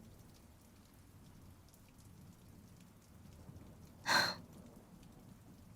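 Faint steady rain sound effect, with a woman's audible breath about four seconds in.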